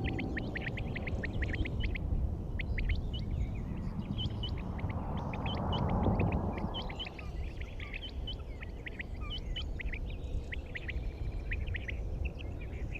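Many small birds chirping in quick, short calls over a steady low rumble, with a brief swell of broader noise about halfway through.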